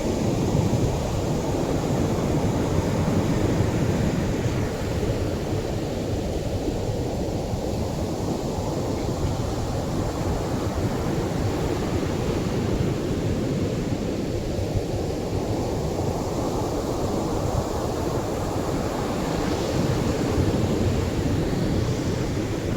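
Atlantic surf washing onto a beach: a continuous rushing wash of waves that swells and ebbs slowly, with a stronger hiss near the end.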